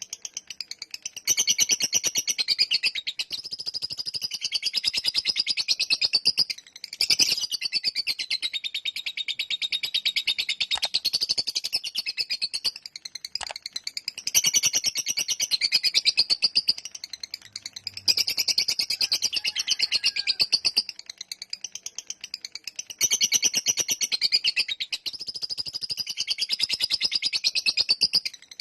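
Lovebird's long 'ngekek' chatter: a very fast, continuous run of high notes, in bouts of about six seconds broken by short pauses.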